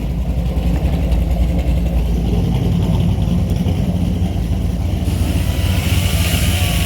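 Third-gen Camaro's small-block Chevy V8 running steadily in gear, spinning the raised rear wheel hub that is being used as a makeshift lathe.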